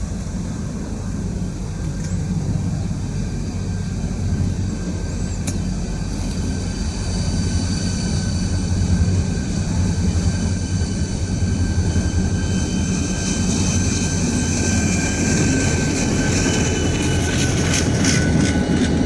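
Norfolk Southern diesel-electric train running by: a steady low engine rumble with a thin, steady high whine, slowly growing louder, and a run of sharp wheel-on-rail clicks near the end.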